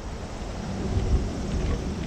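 Low, steady outdoor rumble with a faint hiss above it, swelling slightly about a second in.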